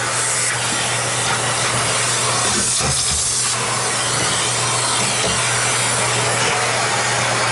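Vacuum cleaner running steadily with a hum, its dusting brush rubbing and sucking dust off a gasket; the brushing sound shifts briefly about three seconds in.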